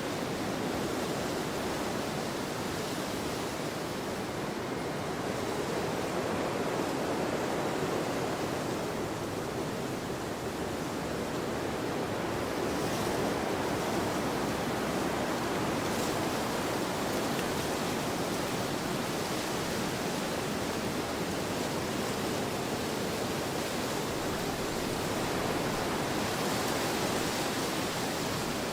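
Wind blowing across an open field: a steady rushing that slowly swells and eases.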